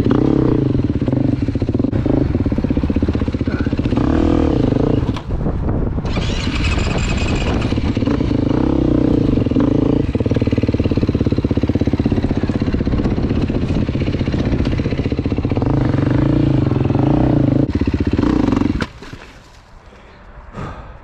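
Dirt bike engine running under way, its pitch rising and falling with the throttle, then dropping away sharply about nineteen seconds in.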